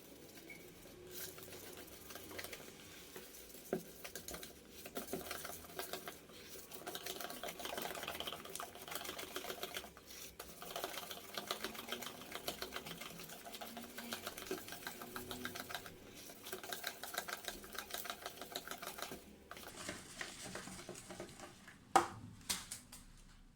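Lemon cake batter being mixed in a bowl: a rapid, steady run of clicking and scraping strokes. There is one sharp clack near the end.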